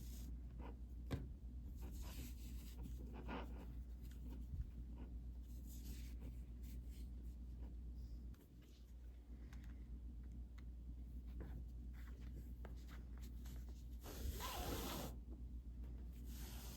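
Yarn being pulled through a plastic mesh canvas: short, scratchy rubbing strokes here and there, with a longer, louder stretch of rubbing near the end, over a steady low hum.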